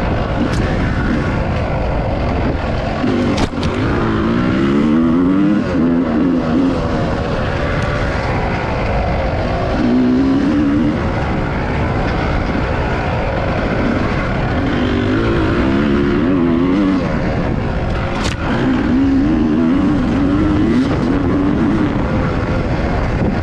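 Dirt bike engine revving up and falling back again and again as it is ridden along a trail, with dense low rumble underneath. Two sharp knocks come through, one a few seconds in and one past the middle.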